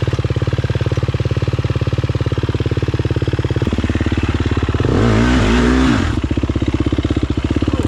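Four-stroke single-cylinder dirt bike engine idling steadily, then revved up and down about five seconds in before settling back to idle, as the rider tries to drive out with the back wheel stuck.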